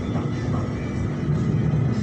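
Steady low rumble of a BTS Skytrain in motion, heard inside the carriage, with background music over it.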